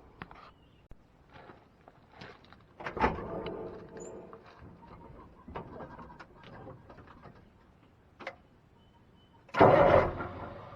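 Scattered knocks and clatter, with one louder ringing bang about three seconds in. Near the end, the Caterpillar 3208 V8 diesel of a 1987 Ford L8000 dump truck starts up with a sudden loud burst, then settles to a steady run.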